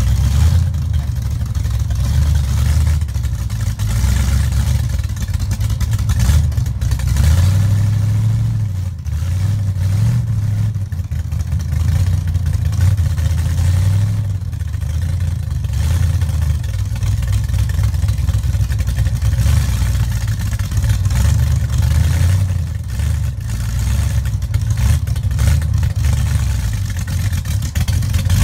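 Hot rod's small-block Ford V8 running and being revved unevenly, the revs rising and falling throughout, as the car works to push through deep snow.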